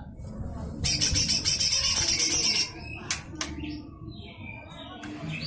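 A lesser green leafbird (cucak hijau mini) gives a harsh, rapid, high-pitched rattle for about two seconds, starting about a second in. Sharp clicks and shorter chirps follow.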